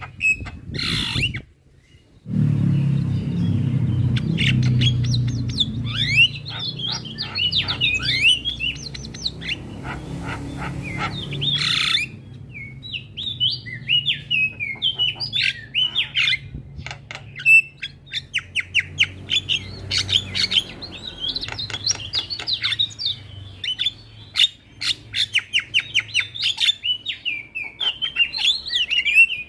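Javan mynas calling: rapid runs of chirps, whistles and harsh squawks, packed tightly together. A brief gap comes about two seconds in, and a low rumble sits underneath for roughly the next ten seconds.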